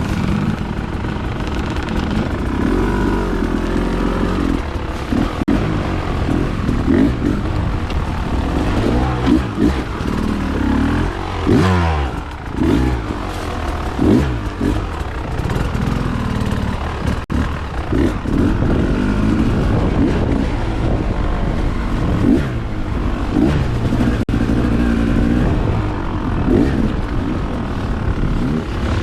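Dirt bike engine running on a trail, its pitch rising and falling over and over as the throttle is opened and closed, with one deep drop and climb about twelve seconds in.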